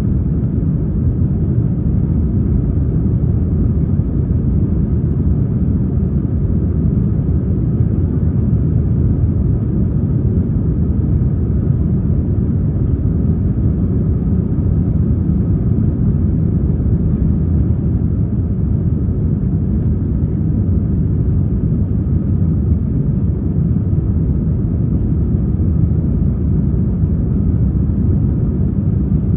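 Steady rumble of an Airbus A321's IAE V2500 turbofan engines and the airflow over the fuselage, heard from inside the passenger cabin in flight.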